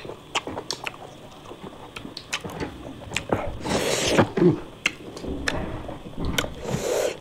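A person eating close to the microphone: wet chewing with many small mouth clicks, and a short hiss about four seconds in.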